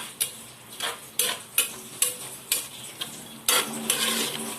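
A cooking utensil scraping and stirring through a curry of chicken and potatoes in a pot, in quick strokes about twice a second, with a longer scrape near the end.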